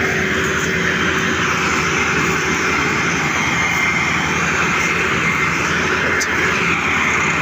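Massey Ferguson 385 tractor diesel engines running loud and steady, working hard under load with a continuous engine drone.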